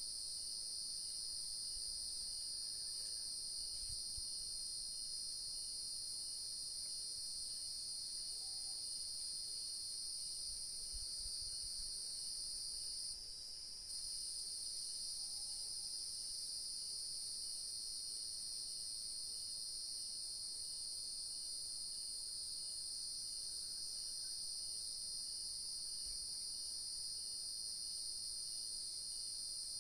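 Steady high-pitched chorus of crickets and other night insects, shrilling without a break apart from a brief drop of about a second near the middle. A fainter regular chirp repeats about once a second underneath.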